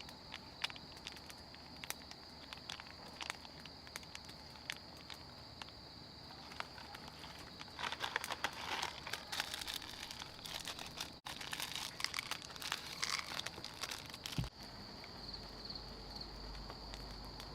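A steady high insect drone with scattered crackles. From about six to fourteen seconds in, a louder stretch of dense crinkling and rustling, like something being handled close by.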